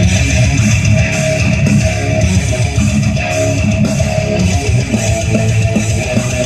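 Rock music with electric guitar and bass playing loudly through a car's stereo speakers, fed from a dash-mounted tablet over the stereo cord.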